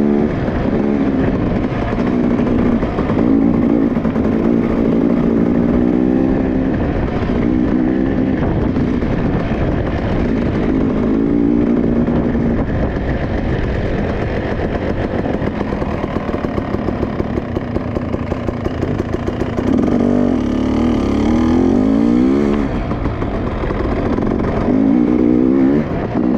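Dirt bike engine being ridden, the throttle opened and eased off again and again, its pitch rising on each rev and falling back between them.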